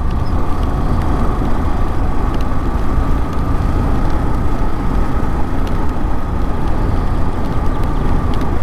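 Motorcycle riding at a steady pace: engine running under a steady low rumble of riding noise, with a faint held tone that does not change.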